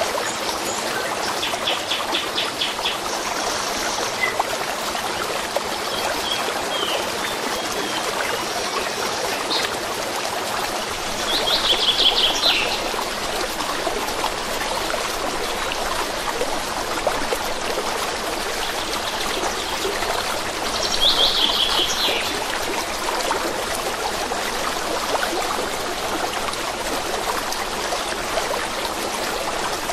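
A stream running steadily, with songbirds singing over it: short trills, the loudest phrases about ten seconds apart.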